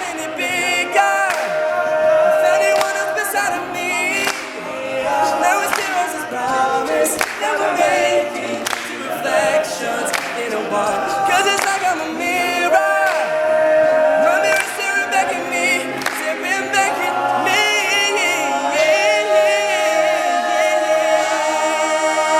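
Male a cappella group singing in close harmony, with held chords and backing syllables under the voices and sharp beatbox-like clicks keeping the rhythm.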